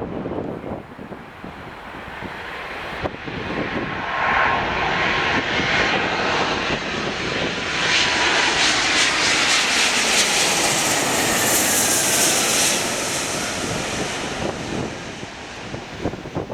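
Boeing 777 jet airliner's twin turbofan engines passing close on a crosswind landing, the rushing jet noise building, loudest with a high whine about halfway through, then fading away.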